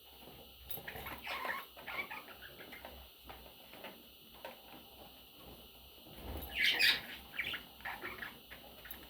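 Pet budgies chirping in short, scattered calls, with some rustling; the loudest chirping comes about seven seconds in.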